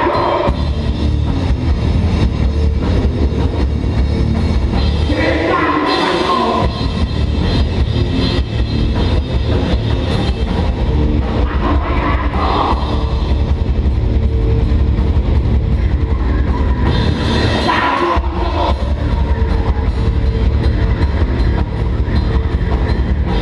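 Live hardcore/metal band playing loud and dense: distorted guitars and bass over fast drumming, with vocals coming in a few times, around 5, 12 and 17 seconds in.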